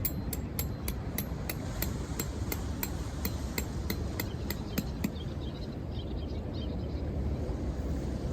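A rapid, even series of light, sharp strikes, about three or four a second, stopping about five seconds in, over a steady low background rumble.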